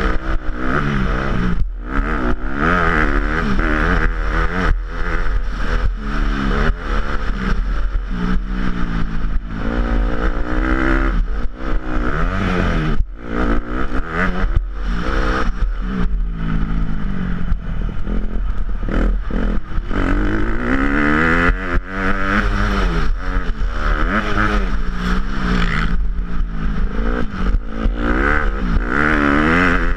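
Motocross dirt bike engine revving hard, its pitch climbing and dropping again and again through the gears as it rides the track, over a constant low rumble.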